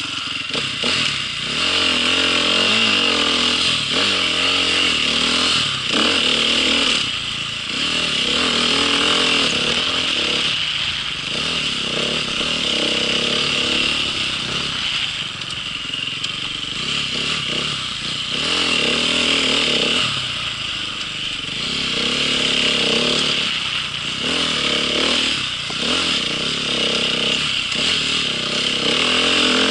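Small off-road vehicle engine running under way, revving up and down with its pitch rising and falling every few seconds.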